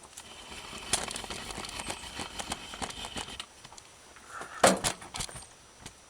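Crackling and many small clicks as new felt window-channel strips and parts are handled, settling down after about three and a half seconds, then one sharp knock about four and a half seconds in.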